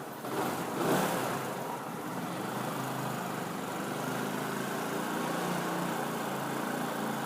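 Yamaha YZF-R125 motorcycle engine on its stock exhaust, surging up about a second in and then running steadily.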